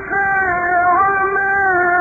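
A male Quran reciter's voice holding a long, high melodic note in the drawn-out mujawwad style of recitation, the pitch bending gently, with a short break just at the start.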